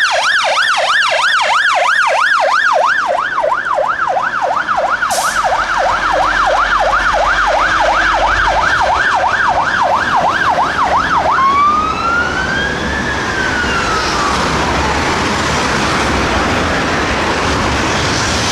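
Scania P270 fire engine siren on a fast yelp, sweeping up and down about three to four times a second. About eleven seconds in it switches to a slow wail that rises and then falls away, leaving road and traffic noise.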